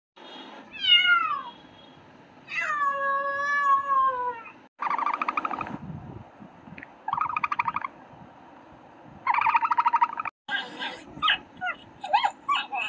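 A domestic cat meows twice, each meow falling in pitch, the second one longer. Then come three short buzzy, rasping calls and a run of quick high squeaks from other animals.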